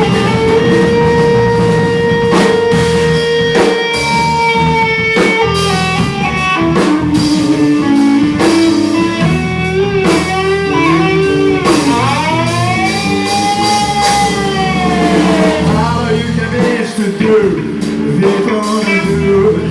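Live blues-rock band playing an electric guitar lead of sustained notes with pitch bends, over bass and drums. The longest bent note swells up and falls back near the end.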